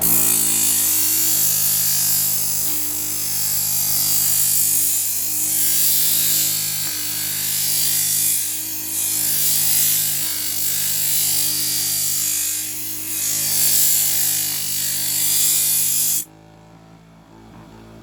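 Steel knife blade ground against the spinning wheel of an M4 scissor-sharpening machine: a loud, hissing grind over the steady hum of the motor, swelling and easing with each pass along the edge. The grinding cuts off sharply near the end.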